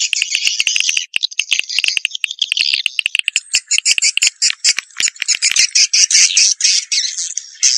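Swiftlet lure call track: a dense, rapid, high-pitched twittering chatter of many short notes, played to draw swiftlets into a nesting house.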